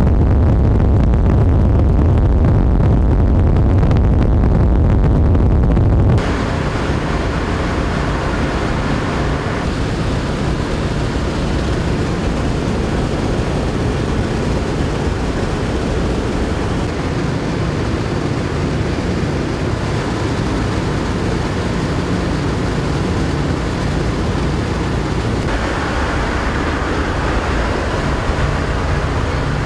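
A B-17 Flying Fortress's four Wright R-1820 Cyclone radial engines droning steadily, heard from on board with rushing air noise. About six seconds in, the sound changes abruptly from a heavier low rumble to a brighter, more even drone.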